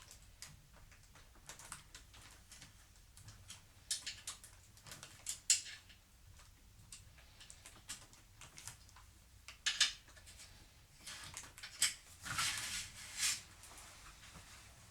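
Sporadic light clicks and knocks of small objects being handled, with a longer stretch of scraping handling noise about twelve seconds in.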